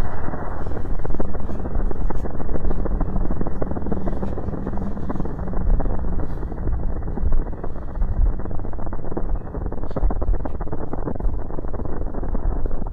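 Fire burning in a fireplace, slowed to half speed: a dense, low rumble thick with crackles and pops.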